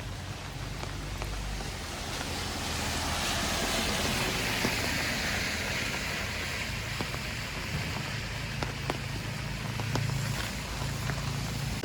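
Rain falling, with scattered drips landing close by. A broad rushing hiss swells up about three seconds in and fades again over the next few seconds, over a low hum.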